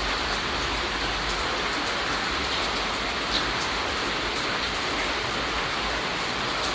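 Steady rain falling, an even hiss with scattered individual drop ticks, one a little louder about three and a half seconds in.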